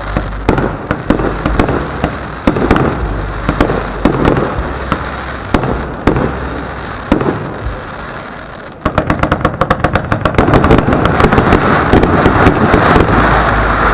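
Aerial firework shells bursting with scattered sharp bangs. About nine seconds in, a dense, rapid run of cracks sets in and grows louder.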